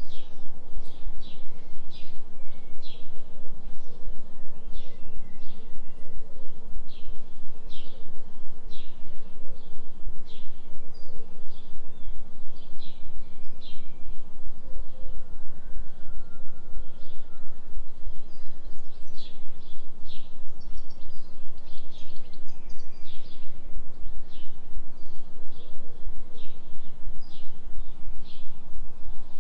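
A low steady hum from a 3 Hz delta binaural-beat tone, throbbing about three times a second, under a forest recording of small birds giving many short, repeated chirps.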